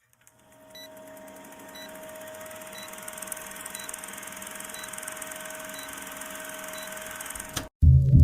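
A steady electronic hum with a faint short high beep about once a second, over a slowly rising hiss; it ends with a click, and music starts just before the end.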